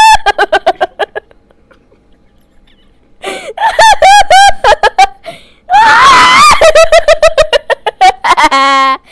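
Sound-effect laughter: high-pitched giggling in rapid bursts, with a pause of about two seconds, then a short scream about six seconds in, more giggling, and a brief buzzing tone near the end.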